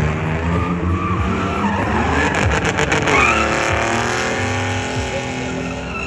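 Car engines running, with one vehicle driving past close by about halfway through: its sound rises to a peak, then falls in pitch and fades as it goes.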